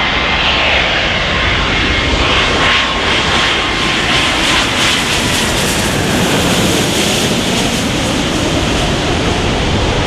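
Boeing 777-200F's twin GE90 turbofan engines at takeoff thrust, a loud steady jet rumble with a faint whine that sinks slightly in pitch as the aircraft passes.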